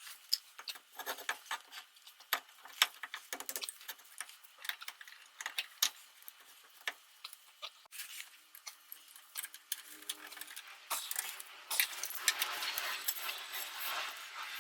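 Small metal parts and hand tools clinking and clicking in irregular light taps during reassembly of a front brake caliper onto a spindle, with a steadier rustling near the end.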